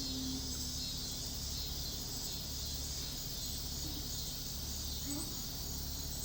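A steady, high insect chorus of crickets over a low, even hum.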